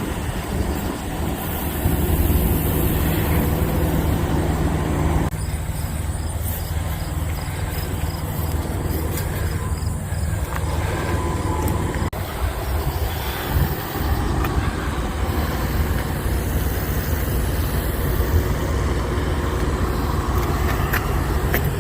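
Idling diesel semi-truck engines in a truck-stop lot: a steady low rumble. A hum drops away about five seconds in.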